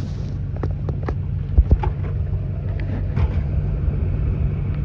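Boat motor idling steadily, with a few light knocks.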